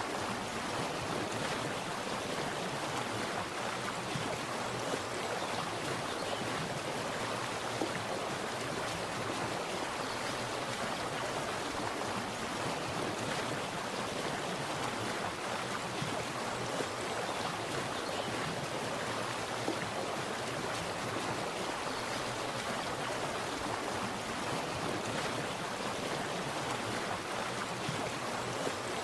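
Water splashing and flowing in a steady, even rush.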